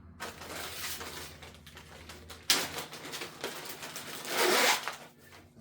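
Zipper-like rasping and rubbing of plastic as wire loom and tape are worked onto a wiring harness. There is a sharp noise about halfway through and a louder rasp near the end.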